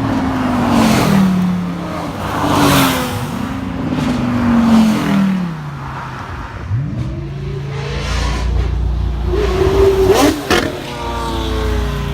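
Supercar engines revving as the cars pull away: three rising-and-falling revs in the first five seconds, then a steady deep engine rumble, with a short sharp rev about ten seconds in.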